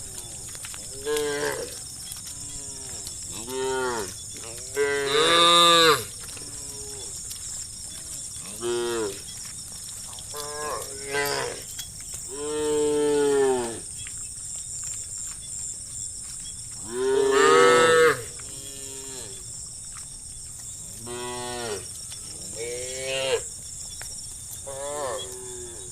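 Cattle in a herd mooing repeatedly: about a dozen separate moos of varying length and loudness, each rising then falling in pitch, the two loudest about five and seventeen seconds in. A steady high-pitched drone runs underneath.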